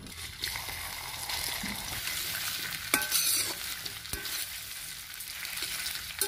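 Sliced taro root (arbi) sizzling in hot oil in a metal kadhai as it is stirred with a steel ladle, with a couple of sharp clinks of the ladle against the pan near the middle.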